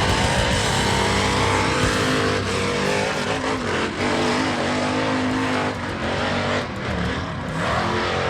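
Mega mud truck engine running hard at high throttle, its pitch rising and falling as it revs, with brief dips in loudness about six and seven seconds in.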